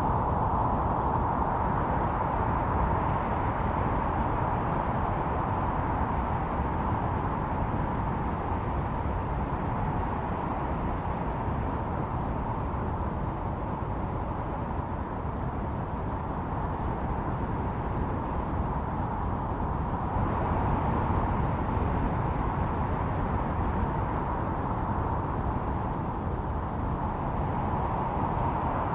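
Snowstorm wind blowing steadily, a howling band over a low rumble, swelling a little in gusts, most noticeably about two-thirds of the way through.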